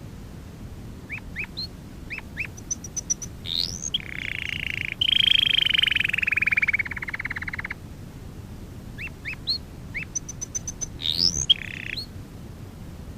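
Domestic canary singing: a few short rising chirps, then a long, rapid rolling trill lasting about four seconds, a short pause, and more chirps with a brief trill near the end.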